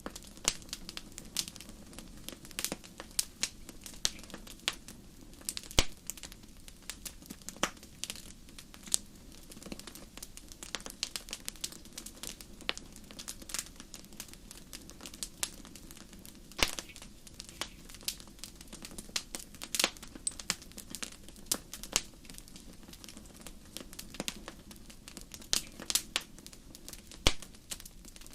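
Wood fire in a fireplace crackling, with irregular sharp pops and snaps over a low steady hiss and rumble of the flames.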